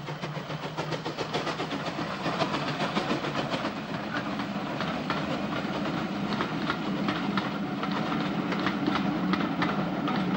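Steam-hauled passenger train running past, its coach wheels clicking rapidly over the rail joints over a steady rumble. The sound swells during the first couple of seconds and then holds steady as the coaches go by.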